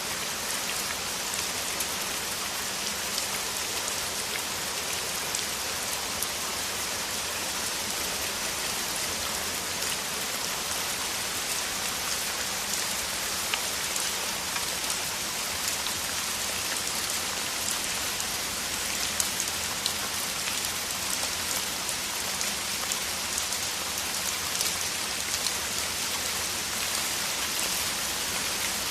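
Heavy rain falling steadily: a dense, even hiss with many small raindrop clicks throughout.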